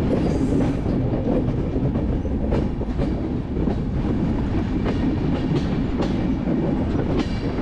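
Passenger train running at speed: a steady rumble of wheels on the track with irregular clicks from the rail joints.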